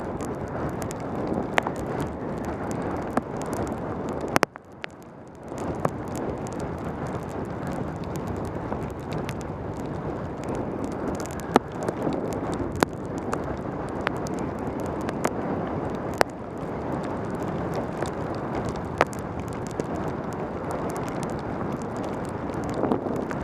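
Wind rushing over a helmet camera's microphone on a fast mountain-bike descent in pouring rain, with tyres hissing on the wet road and scattered sharp clicks. The rush drops away for about a second, some four and a half seconds in, then returns.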